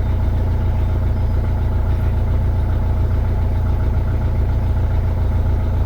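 A narrowboat's diesel engine running steadily, a deep even drone with a faint steady hum above it.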